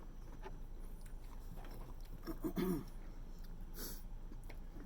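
Close-up chewing and mouth sounds of a person eating steak, with soft scattered clicks. About halfway through there is a brief pitched voiced sound, the loudest moment, and shortly after it a short hiss.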